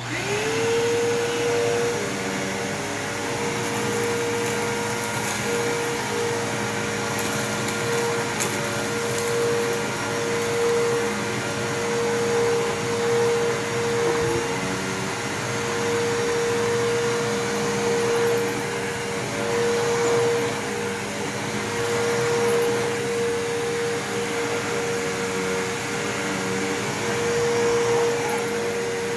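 Bissell 3522-6 PowerForce upright vacuum cleaner switched on: the motor whine climbs quickly to speed, then the vacuum runs steadily at an even pitch while it picks up the mess.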